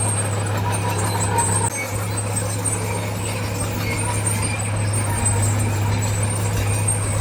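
Heavy diesel engine of earthmoving equipment running steadily under load, with a brief dip a little under two seconds in.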